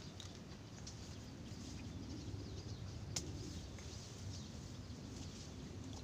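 Small birds chirping faintly and on and off, with one sharp click about three seconds in.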